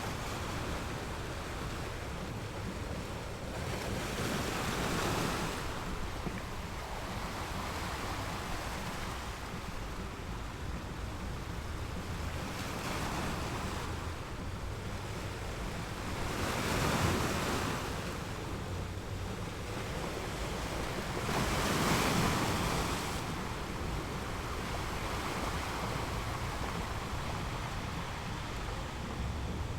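Ocean waves rolling in and breaking: a steady wash of surf with four louder waves swelling and fading, the loudest two past the middle.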